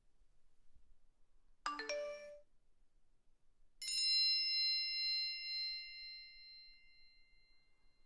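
Two chime sound effects. First a brief chime of a few quick notes. About two seconds later a single bright bell-like ding rings out and slowly fades away.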